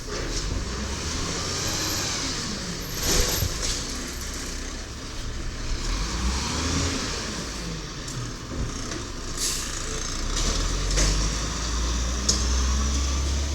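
Diesel automated side-loader garbage truck working at the curb: the engine runs and rises and falls in pitch, with a sharp burst of hiss about three seconds in and shorter ones later.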